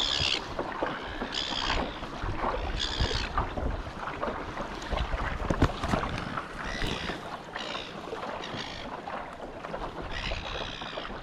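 Kayak on open water with wind on the microphone and small knocks and splashes, while short, harsh, high-pitched bird calls sound about eight times at irregular intervals.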